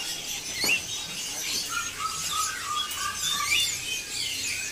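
Many caged songbirds chirping and warbling at once, a dense overlapping chorus of short high calls. A run of lower, quick repeated notes comes in about two seconds in.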